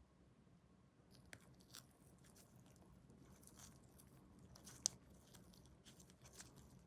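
Faint clicks and light crackling of small plastic model-kit parts and tools being handled, with one sharp click about five seconds in.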